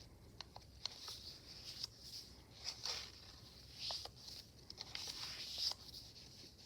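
Faint paper rustling and small clicks as the pages of a handmade paper journal are turned and handled, in short bursts several times.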